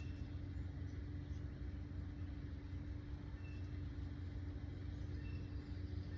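A steady low rumble with a constant hum, and a few faint, short bird chirps, about three and a half and five seconds in.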